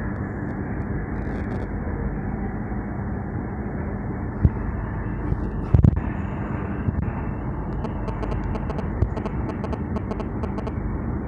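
Steady rumble of a passenger train running along the track, heard from inside the carriage. A few sharp knocks cut through it, the loudest about six seconds in.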